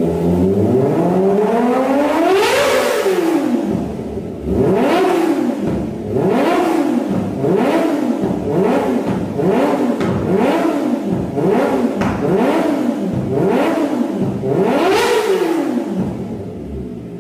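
Kawasaki Ninja ZX250R engine revved through an aftermarket exhaust while stationary: one long rev that climbs and falls back, then a string of about nine quick throttle blips roughly a second apart, before it settles back to idle near the end.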